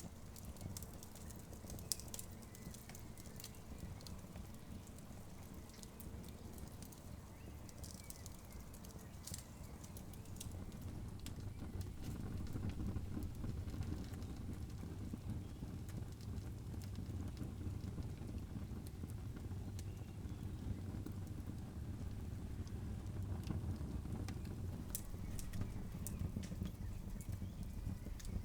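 Campfire crackling, with scattered sharp pops and snaps over a low rumble. The rumble grows louder about twelve seconds in.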